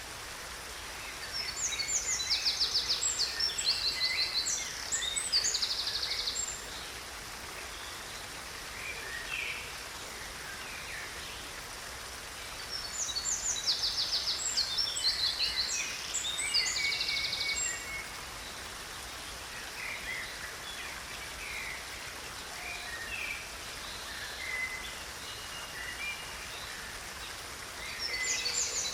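Water in a stream running steadily, with a songbird singing high, rapid trilled phrases in two long bursts: one about a second in and one around the middle. Scattered short chirps come in between.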